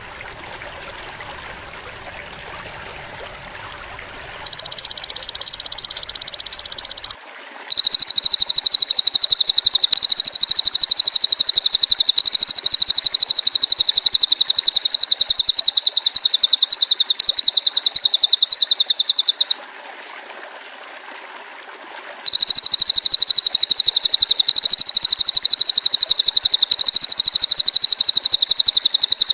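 Belalang emas (golden grasshopper) insect stridulating: a loud, high-pitched, rapidly pulsing buzz in long unbroken bouts. A short bout comes about four seconds in, then a long one of about twelve seconds, and after a gap of about three seconds another starts, with low background noise in the gaps.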